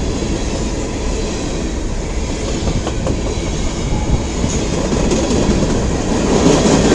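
Freight cars of a long CN mixed-freight train rolling slowly past, with a steady rumble and clatter of steel wheels on the rails.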